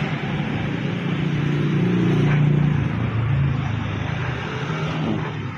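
An engine running steadily, a little louder about two seconds in.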